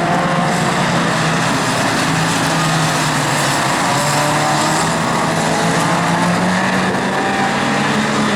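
Euro Rod race cars lapping the oval, several engines running hard at once, their notes rising and falling as they go round.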